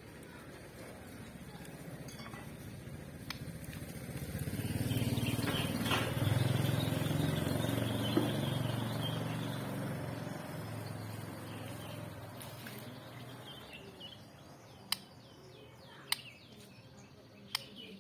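A motor vehicle, likely a motorcycle, passing by: its engine hum swells over a few seconds and then fades away. Near the end come three sharp clicks.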